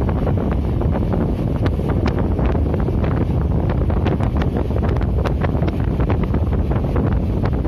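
Passenger train running at speed, heard from beside an open window: a steady rumble of wheels on the track with irregular rattling clicks, and wind buffeting the microphone.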